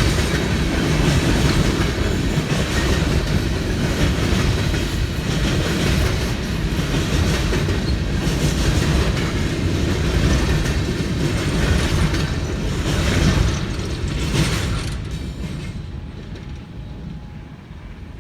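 CSX freight train's cars rolling past at close range: steady wheel-on-rail noise with a regular clickety-clack. About fourteen seconds in, the last cars go by and the sound fades away.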